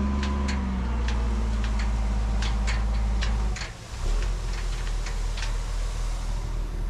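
Tri-axle dump truck's diesel engine running steadily, with many sharp clicks and rattles over it; the engine sound dips briefly a little past halfway in, then picks up again.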